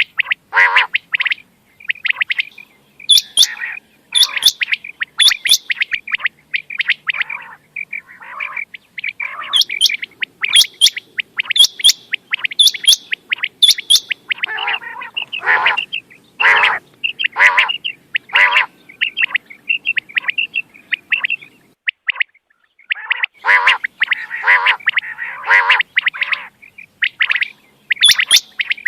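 Quail calling over and over: short chirping notes in quick runs, with a brief pause about three-quarters of the way through.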